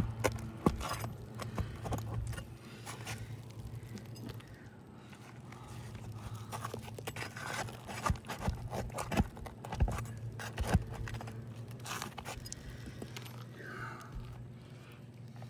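Metal roofing tools working under asphalt shingles to pull the nails: scraping and rustling with a handful of sharp metal knocks, bunched around the middle.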